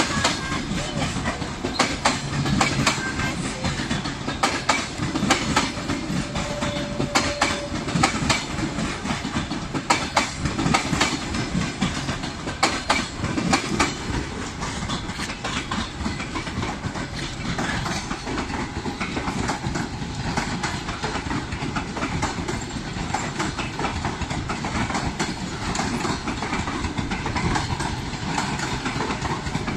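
Passenger train passing, its wheels clattering over the rail joints in quick clicks. The clatter is densest in the first half and gives way to a steadier rolling rumble.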